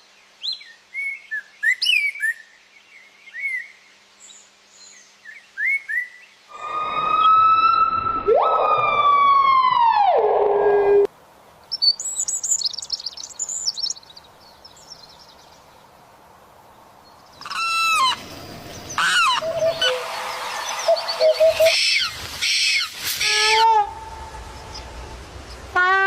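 Calls and songs of several different birds in succession: short chirps, then a loud long call that slides down in pitch, then high rapid twittering and a run of varied calls and trills.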